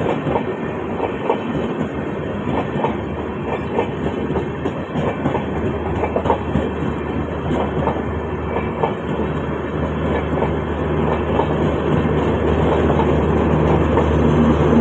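Train rolling slowly through a station, its wheels clicking irregularly over the rail joints. A steady low hum builds and grows louder over the last few seconds.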